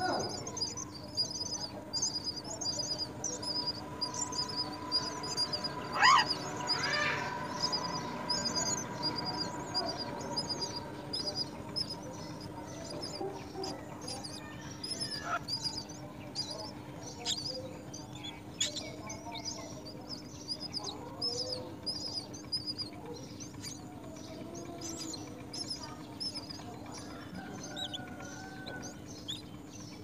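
Birds at a common myna nest: rapid, high chirps repeated throughout, with a few louder downward-sliding calls in the first seven seconds.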